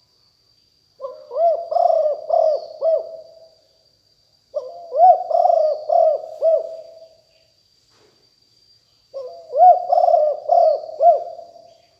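A spotted dove cooing: three phrases of several bouncing coo notes, a few seconds apart. A faint steady high-pitched whine runs behind them.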